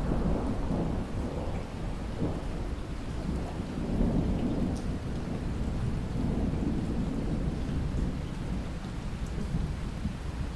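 Steady rain with a long, low roll of distant thunder that swells from the start and fades after about eight seconds.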